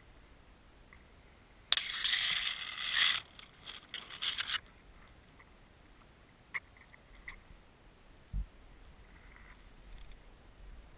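A sudden burst of scraping and rustling close to the microphone, about two seconds in, lasting a second and a half and trailing off in shorter scrapes; a few faint clicks follow.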